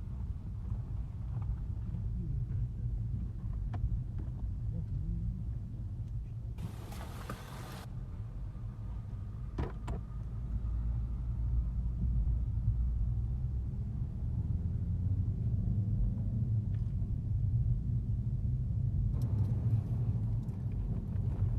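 Car driving along a road, a steady low rumble of engine and road noise, with a brief rush of noise about seven seconds in and a single click near ten seconds.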